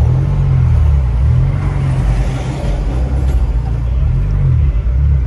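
Mk2 Ford Focus's turbocharged five-cylinder engine heard from inside the cabin while driving, a loud low drone whose revs rise and fall a few times as the car pulls away and eases off.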